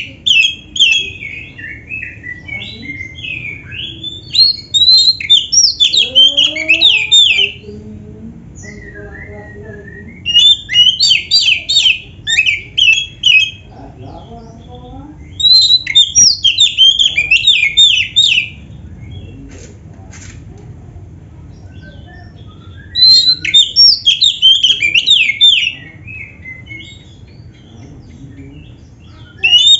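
Oriental magpie-robin (kacer) singing in loud phrases of rapid notes. The phrases last a few seconds each and come about five times, with short quieter pauses between them. The song carries canary-style fill-in notes.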